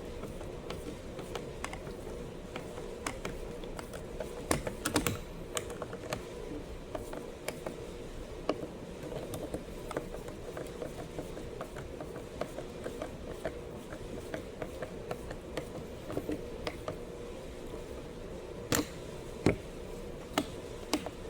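Scattered light clicks and taps of hand work on a Stihl MS 250 chainsaw as its parts are handled and fitted back together, with a few sharper knocks about five seconds in and twice near the end.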